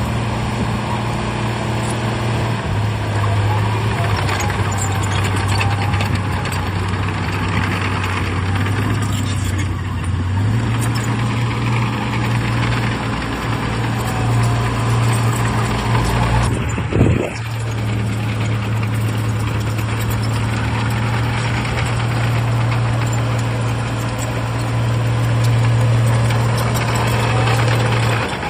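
Heavy diesel earthmoving machinery running under load, its engine note shifting up and down several times as the load changes. A short thud a little past halfway briefly breaks the steady sound.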